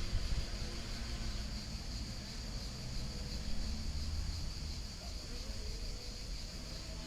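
Calm river flowing in a steady nature ambience, with a constant high-pitched hiss over a low rumble.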